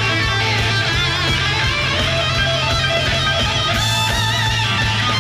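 Live rock band playing, led by an electric guitar solo with wavering, bent notes over steady bass and drums.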